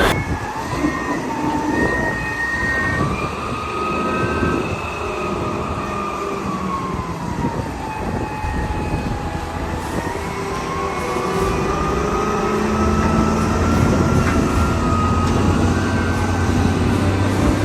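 Train running with a low rumble and a high, slowly wavering wheel squeal; the rumble grows louder in the second half.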